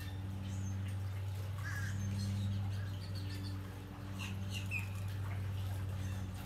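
Steady low machine hum, with scattered short bird chirps over it.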